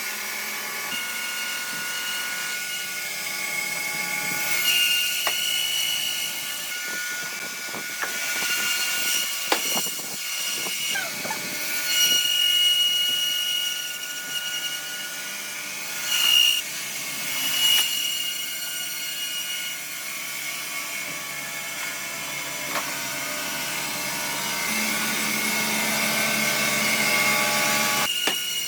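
Woodworking power machinery running as it cuts wood, with sustained high-pitched whines. Louder screeches come about 12 seconds in and again twice between about 16 and 18 seconds.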